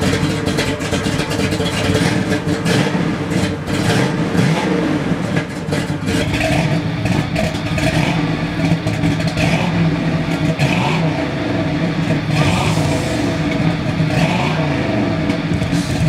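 1969 Yenko Camaro's 427 big-block V8 running while parked, with the revs rising and falling as the throttle is blipped several times, mostly in the second half.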